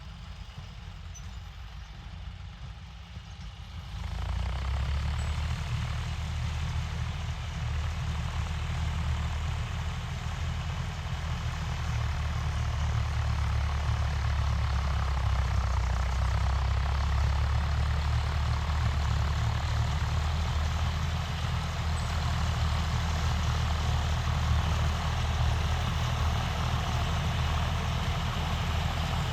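John Deere 5310 tractor's diesel engine running steadily, becoming clearly louder about four seconds in and then holding at the higher level.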